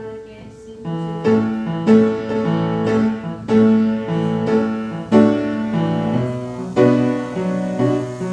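Piano playing a slow passage of chords and melody notes, each note struck and left to ring. It is softer for about the first second, then picks up again.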